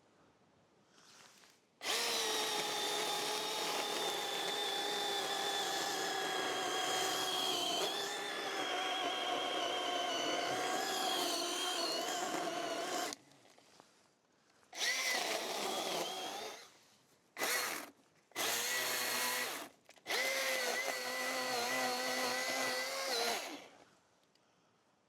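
Cordless electric power tool running with a steady motor whine: one long run of about eleven seconds, then four shorter bursts, stopping dead between them with no idle.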